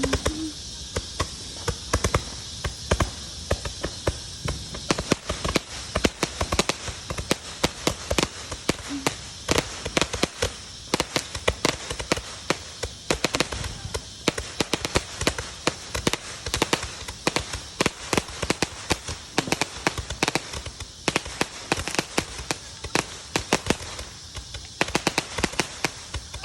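Fireworks and firecrackers going off in rapid, irregular pops and crackles, several a second, with louder bangs scattered among them.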